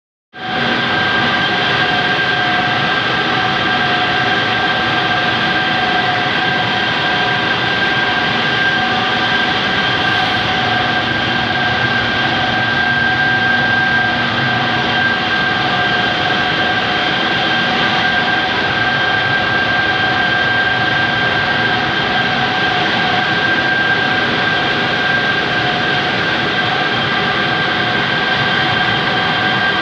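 Two-stage centrifugal compressor running steadily: a loud, even machine noise with a steady high whine over it.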